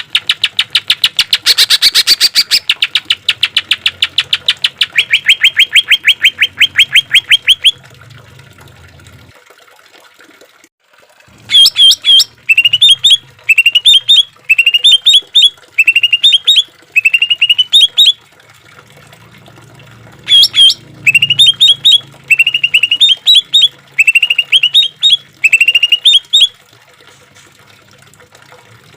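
Green leafbird (cucak ijo) song: a long, fast rattling trill of rough repeated notes for about eight seconds, then after a short pause, a string of brief phrases of quick rising chirps, each phrase about a second long.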